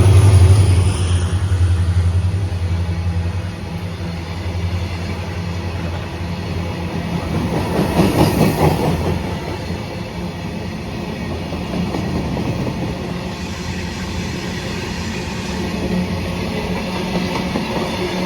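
Indian Railways goods train rolling past, a continuous rumble of wagons on the rails. It is loudest with a deep hum at the start, eases off over the first few seconds, and swells briefly about eight seconds in.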